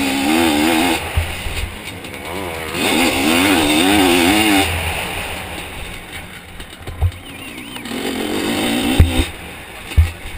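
Zabel 700 two-stroke sidecar-cross engine revving hard in three bursts, its pitch wavering, easing off in between. Sharp thumps cut in several times.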